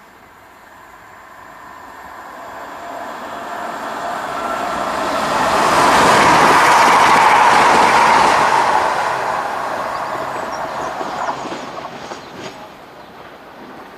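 CrossCountry Class 170 Turbostar diesel multiple unit passing through the station at speed. A whine rides over the rush of its wheels on the rails. The sound swells to a peak about six to eight seconds in, then fades as the train draws away.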